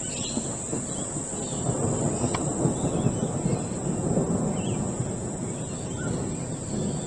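Steady high-pitched chorus of insects, with a low rumble underneath that swells a little in the middle.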